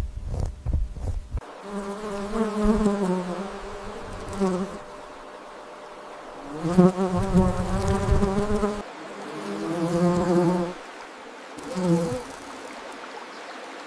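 A low rumble for the first second and a half, then a wavering buzzing drone that comes in four bouts, the first two about three seconds each and the last very short.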